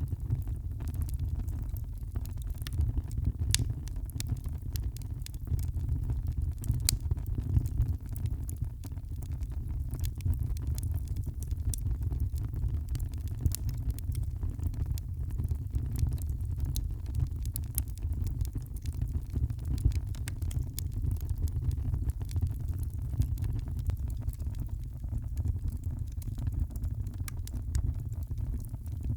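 Wood fire burning in a fireplace: a steady low rumble of the flames with frequent sharp crackles and pops of the burning wood.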